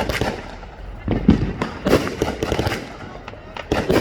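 Consumer fireworks going off all around: clusters of sharp bangs and crackling reports, with the loudest groups about a second in, in the middle, and near the end.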